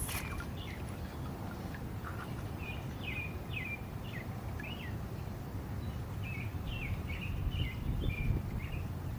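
Birds chirping with many short, quick calls, over a steady low rumble.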